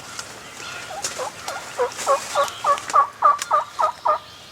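Wild turkey gobbler gobbling: one rolling gobble of about ten rapid notes lasting about three seconds, growing louder toward the end.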